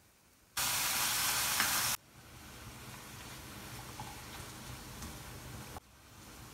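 Chicken strips, sliced onion and green capsicum sizzling in oil in a nonstick frying pan while being stirred with a silicone spatula. A loud hissing sizzle starts about half a second in and stops abruptly about a second and a half later. Quieter steady sizzling follows, with a brief break near the end.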